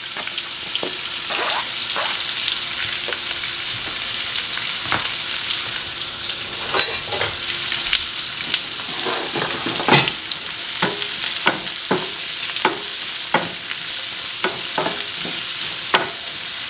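Chopped onions, sweet peppers and squash sizzling in ghee in a wok over a gas flame, a steady hiss. A wooden spatula stirs them, knocking and scraping against the pan, more often in the second half.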